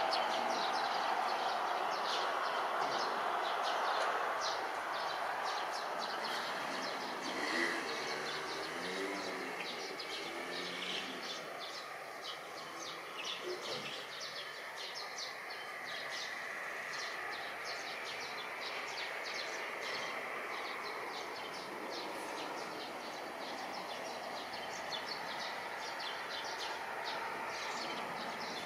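Steady distant outdoor background noise with small birds chirping over and over throughout.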